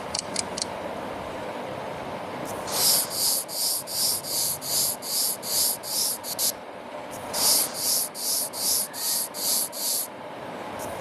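A brush stroking through a cat's fur, about three strokes a second, in two runs with a short pause between.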